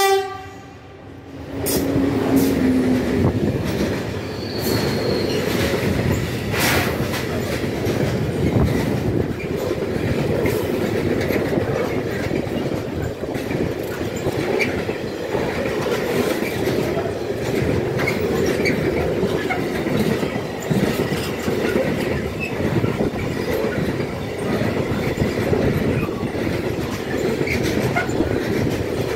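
A train passing close by: a brief horn blast at the very start, then a steady rumble and clatter of wheels on the rails that goes on without a break.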